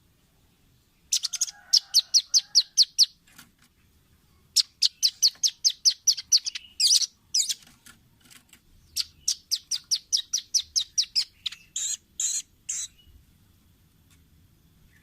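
Velvet-fronted nuthatch (rambatan paruh merah) calling: three quick trills of sharp, high chipping notes, about five a second, separated by short pauses, ending with a few louder, higher notes.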